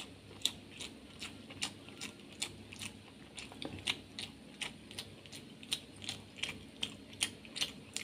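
Close-miked eating of rice mixed with masoor dal by hand: wet, sharp clicks and smacks of chewing, irregular, about three a second.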